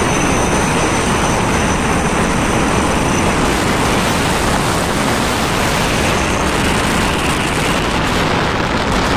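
Vehicle engine running loudly and steadily through an aftermarket racing exhaust.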